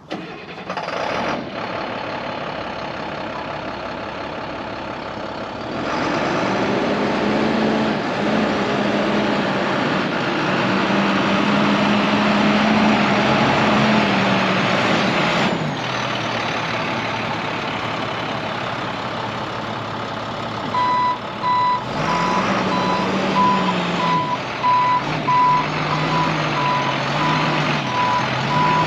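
2006 International 4300 flatbed truck's diesel engine running; it revs up about six seconds in, holds, then drops back to idle about halfway through. From about three quarters of the way in, the truck's reversing alarm beeps repeatedly while the engine pitch rises and falls as it backs up.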